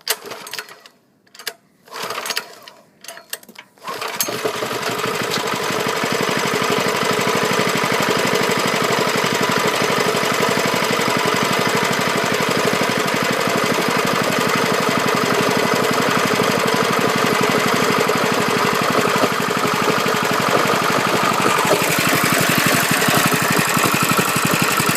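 Lifan 6.5 hp single-cylinder four-stroke engine: a few short starting attempts, then it catches about four seconds in and runs steadily, its note changing slightly near the end.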